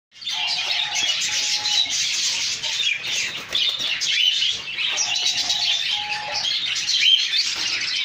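Cage birds chirping and twittering without pause, high-pitched and busy, with a short lower whistled phrase twice, near the start and again around five seconds in. A cockatiel flaps its wings about halfway through.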